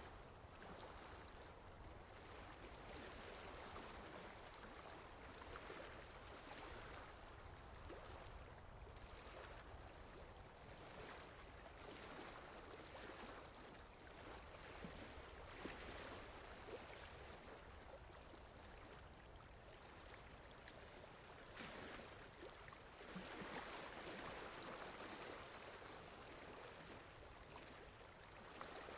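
Rain falling steadily and softly, an even hiss with no single drops standing out, swelling a little about three-quarters of the way through.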